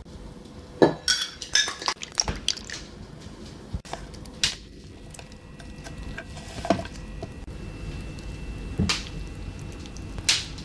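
Kitchenware being handled: irregular clinks and knocks of dishes and utensils, a quick run of them in the first couple of seconds, then single sharp strikes every second or two.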